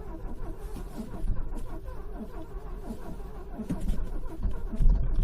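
Car engine being cranked by its starter motor in extreme cold, turning over slowly and unevenly without firing, a sign of a cold-soaked engine struggling to start. It grows louder and heavier near the end.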